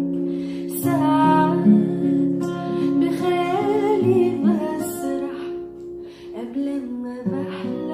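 A solo voice sings long, wavering notes without clear words over plucked acoustic guitar accompaniment.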